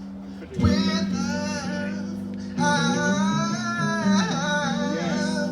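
Acoustic guitar holding a chord under a man singing long, wavering wordless notes that begin about half a second in, break briefly near the middle and carry on to the end.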